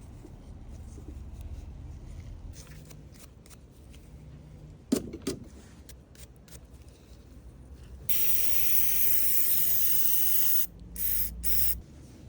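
Pressurised spray hissing: one long burst of about two and a half seconds, then two short bursts. A single sharp knock comes about five seconds in.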